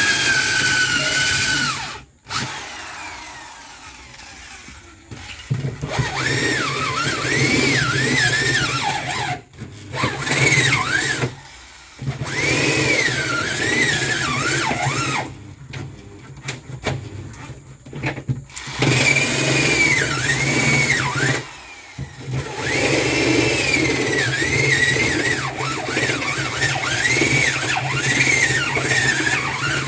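Handheld power drill run in repeated bursts on the fridge's casing, its bit squealing with a wavering pitch that rises and falls as it bites.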